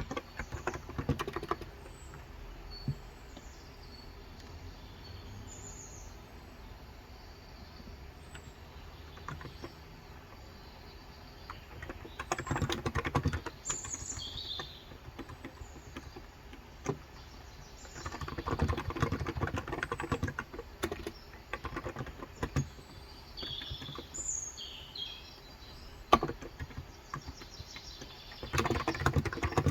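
Typing in bursts of rapid keystrokes on a COX Endeavour 35 g tenkeyless electro-capacitive (Topre-style) keyboard, with pauses between bursts. Birds chirp in short high calls in the background.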